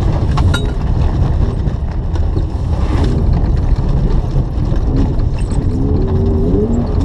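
BMW E36 engine revving up and down under hard driving on a gravel and ice course, heard inside the cabin over a heavy rumble of tyres on the loose surface. Stones tick against the body now and then.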